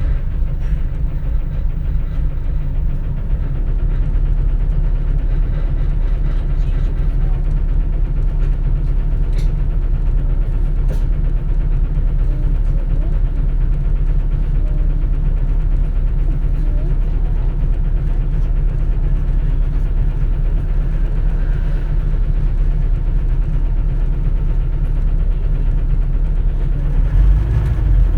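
Cabin sound of a 2004 compressed-natural-gas (CNG) city bus on the move: a steady low engine drone with road rumble, getting a little louder near the end.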